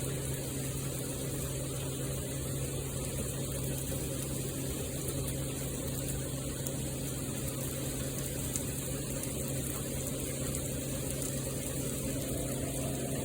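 Steady rain falling in a rainstorm, an even rushing noise with a steady low hum underneath.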